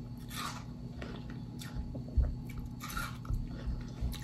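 A person chewing a mouthful of crunchy watermelon, with irregular short crunches.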